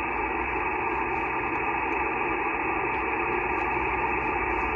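Steady static hiss of 15-metre band noise from a Yaesu FT-891 transceiver in SSB receive, with no station talking. The hiss sounds thin and muffled because the receive filter cuts away the high end.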